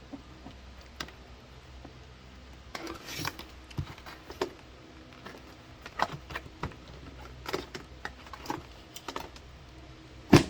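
Scattered clicks, taps and knocks as a foldable portable washing machine is handled, with one sharp, louder knock just before the end.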